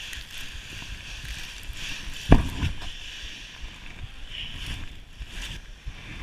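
A sled sliding down a snowy slope, a steady hiss of snow under it with low rumbling, and one sharp thump a little over two seconds in as it hits a bump.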